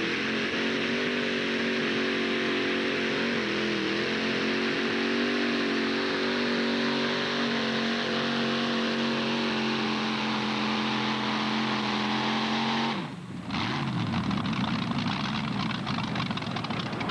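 Modified pulling tractor engine at full throttle through a pull, holding a steady high pitch for about thirteen seconds, then cutting off suddenly with the pitch falling away. A rougher, crackling noise follows near the end.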